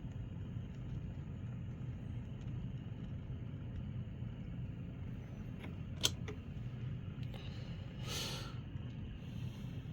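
N scale model locomotive's Atlas VO-1000 motor and gear mechanism running on the track, a steady low hum. A sharp click about six seconds in and a short hiss near eight seconds.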